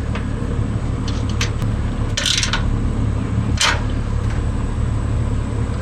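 Small metal mounting hardware clinking and scraping as a bolt and nuts are fitted to a light bracket: a few short scrapes, the two loudest about two and three and a half seconds in, over a steady low hum.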